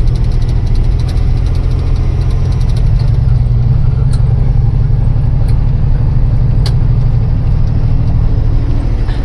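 Truck engine running steadily while the truck drives over a hill, with faint clicks and rattles, thickest in the first few seconds.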